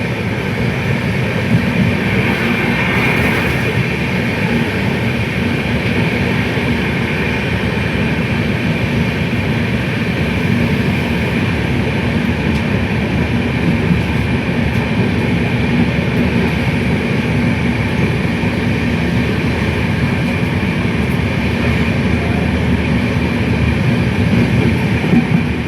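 Steady, unbroken rumble and hiss of a moving vehicle.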